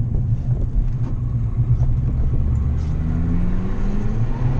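Fiat 500 rally car's engine heard from inside the cabin, pulling under load; its revs climb steadily from about three seconds in as the car accelerates.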